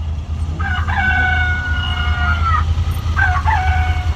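A vehicle's novelty horn sounding a long blast of several tones together, about two seconds, then a short second blast, over the low rumble of idling engines.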